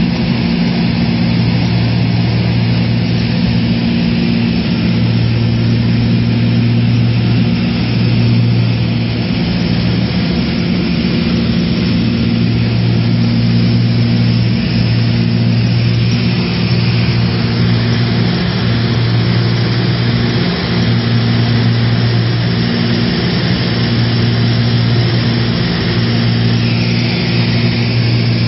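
Propeller airplane engines running with a steady, loud, low hum and a constant rushing noise during a landing approach.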